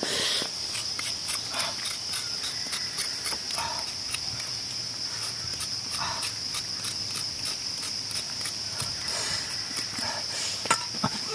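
Steady high-pitched insect chorus with a fast, even pulsing, with a few faint short sounds underneath.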